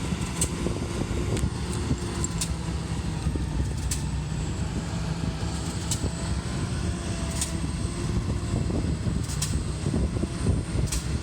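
Heavy diesel truck engine running steadily, a low even drone, with a few sharp ticks every second or two.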